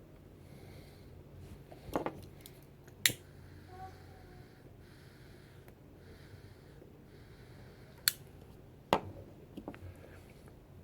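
Soft puffs and breaths of a man smoking a tobacco pipe, broken by four sharp clicks, two around the second and third seconds and two near the eighth and ninth.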